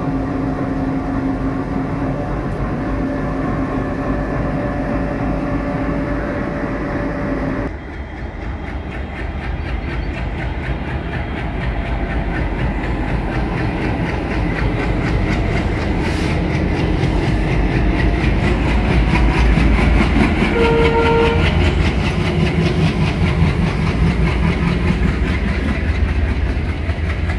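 Diesel-hauled Indian Railways train passing close by: steady clatter of wheels over rail joints with the low rumble of the diesel locomotives, growing louder as they go by. A drawn-out steady tone runs through the first eight seconds and stops abruptly, and a short higher tone sounds about three-quarters of the way through.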